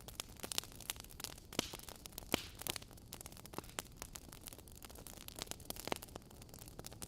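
Wood fire burning in a fireplace: a steady low hiss with irregular sharp crackles and pops from the burning logs, a few louder pops standing out.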